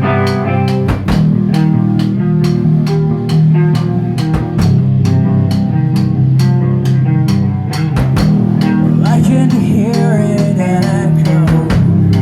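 Metal band playing live: distorted electric guitars and bass over a drum kit keeping a steady beat.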